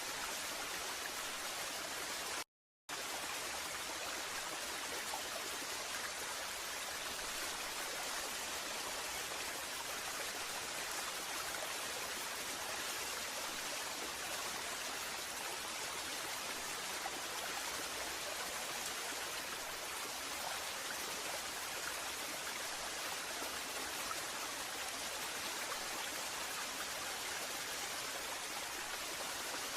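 Waterfall: falling water rushing steadily and evenly. The sound drops out completely for about a third of a second about two and a half seconds in, then carries on unchanged.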